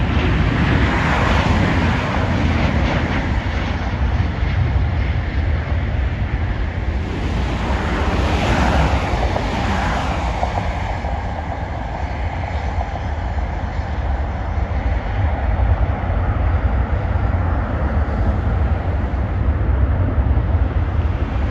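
Jet airliner engines heard as a steady rushing noise with a heavy low rumble, with a pitch that glides downward about eight to ten seconds in.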